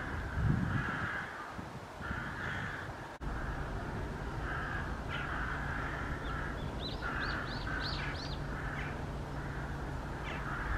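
Crows cawing repeatedly in a long series of harsh calls, with a few quick high chirps from a small bird in the middle and a single sharp click about three seconds in.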